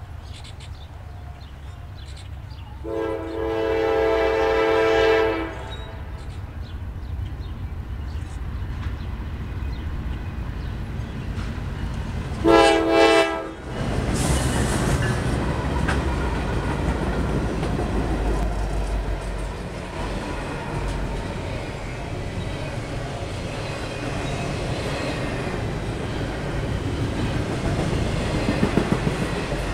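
Freight locomotive air horn sounding one long blast about three seconds in and two short blasts around thirteen seconds, as a Norfolk Southern diesel-led intermodal train approaches. The lead locomotives then pass close by with a loud, low engine rumble, followed by the intermodal cars rolling past with steady wheel clatter on the rails.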